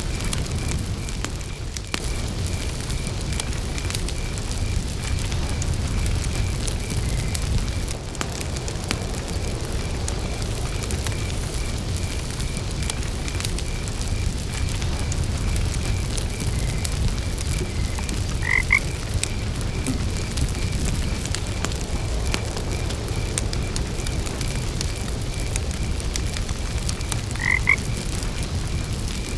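Wood campfire burning with a steady low rumble and scattered crackles, crickets chirping in a steady pulsing rhythm, and a frog croaking twice, once past the middle and once near the end.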